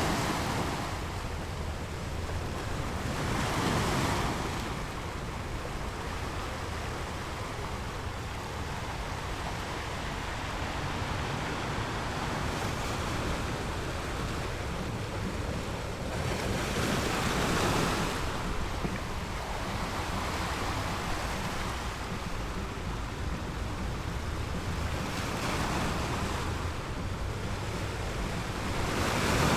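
Sea waves breaking on a rocky beach: a steady rush of surf that swells louder as waves come in, about four seconds in, a little past halfway, and again towards the end.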